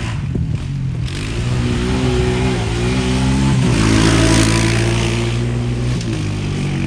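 Small off-road engines running on a dirt track, their pitch rising and dipping as the throttle is worked. The loudest pass comes about four seconds in.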